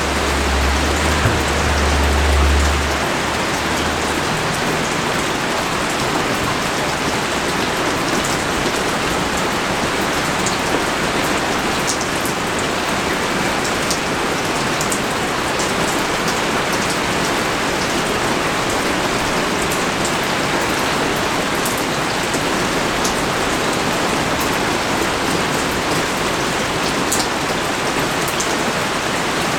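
Steady heavy rain falling, with individual drops ticking sharply on a nearby surface. A low rumble runs under it for the first few seconds and then fades.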